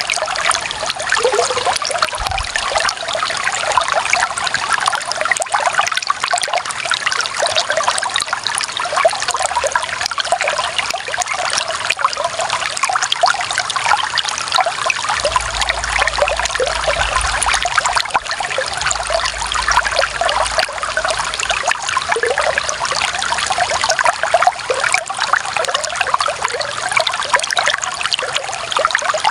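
Clear, shallow running water trickling and babbling steadily, full of small quick splashes. A faint low rumble sits underneath for a few seconds midway.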